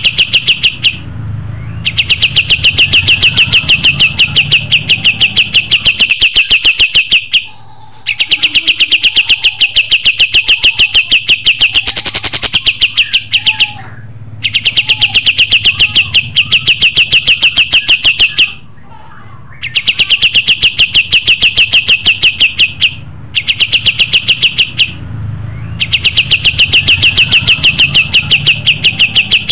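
Kapas tembak songbird singing continuously: long phrases of fast, evenly repeated sharp high notes, each phrase running a few seconds with short pauses between, over a low steady hum.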